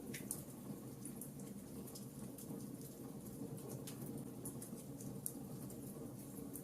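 Wood campfire burning, crackling with many small sharp pops over a steady low sound of the fire.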